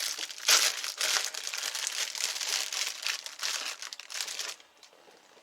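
Packaging crinkling and rustling as it is handled, with a louder crackle about half a second in; it stops about four and a half seconds in.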